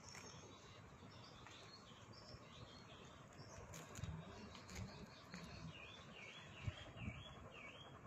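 Faint, high bird chirps, scattered and then a quick run of short chirps near the end, with a few soft bumps.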